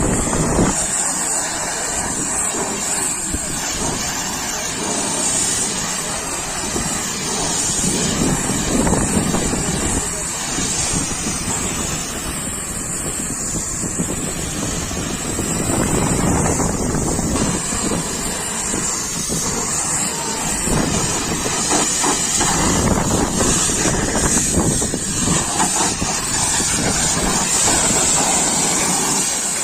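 Pressure-washer spray hissing steadily against a truck's body, the rush of water rising and falling as the jet moves.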